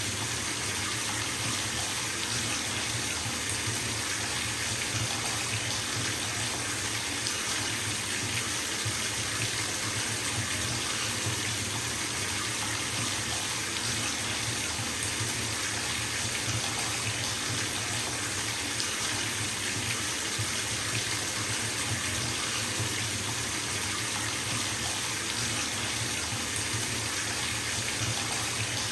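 Bathtub tap running into a filling tub: a steady, unbroken rush of water with no change in level.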